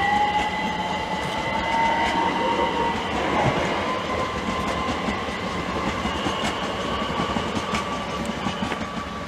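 Class 387 Electrostar electric multiple unit pulling away, its traction motor whine rising slowly and steadily in pitch as it gathers speed, with wheels clicking over the rail joints.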